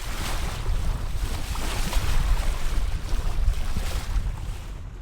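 Wind buffeting the microphone in an uneven low rumble, over a steady rush of water along a sailboat's hull; it eases near the end.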